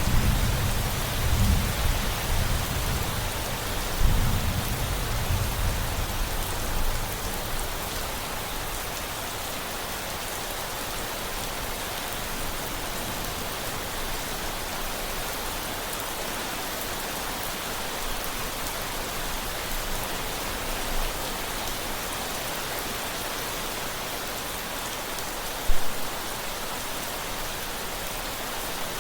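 Steady rain falling, with a deep rumble of thunder in the first few seconds that dies away. Near the end there is one brief low thump.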